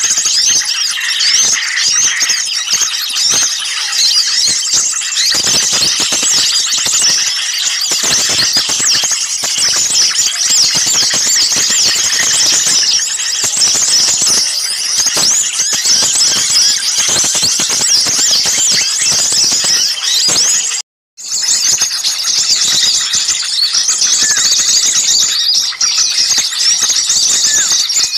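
Dense, unbroken chorus of many small birds, all chirping and squeaking at once in a noisy, agitated flock: a bird-lure recording. The sound cuts out for a split second about three-quarters of the way through, then carries on.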